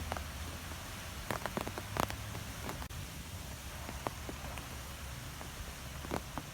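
Wind blowing through trees: a steady low rumble with scattered light ticks and taps at irregular intervals.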